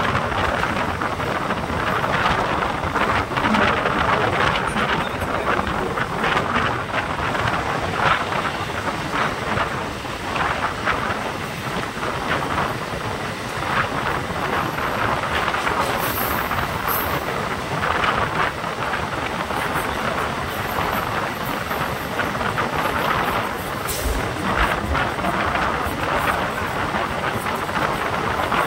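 Electric MEMU (multiple-unit) passenger train running along the line, heard from on board: a steady rumble of wheels on rail with scattered sharp clicks and knocks.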